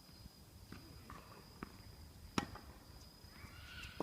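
A tennis ball being struck: one sharp crack about two and a half seconds in, with a couple of fainter knocks before it.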